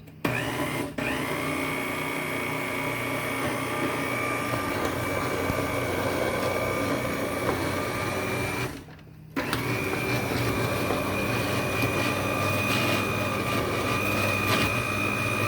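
Blender motor running as it purées butternut squash soup, a steady whine over a churning rumble. It stops briefly about nine seconds in, then starts again.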